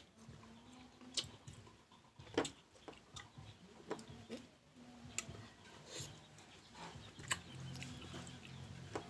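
Crunching and chewing of raw green mango slices dipped in fish bagoong: short, crisp bites and mouth clicks at irregular intervals, the loudest about two and a half and seven seconds in.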